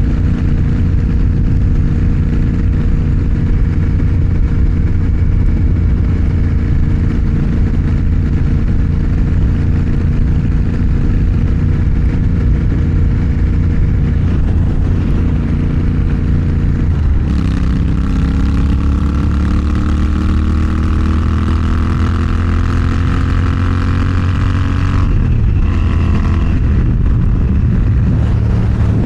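Motorcycle engine running at a steady cruise. A bit over halfway through its pitch drops suddenly, then climbs steadily as the bike accelerates, and it changes again near the end as it shifts gear.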